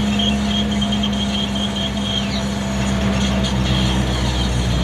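Mitsubishi T120SS pickup engine running steadily under way. Its note changes about three seconds in, and a faint high repeating chirp sits above it for the first half.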